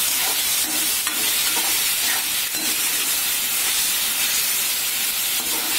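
Chopped tomatoes, onions and green chillies sizzling in hot oil in a metal kadai while being sautéed. A metal spatula stirs and scrapes them, with a few clicks of the spatula against the pan.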